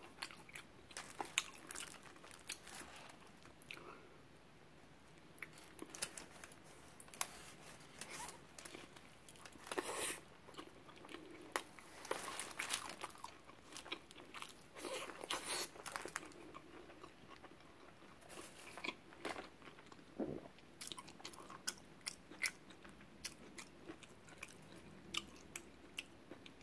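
A person chewing and biting food close to the microphone: many short, sharp mouth clicks and crackles in irregular clusters, with brief pauses between bites.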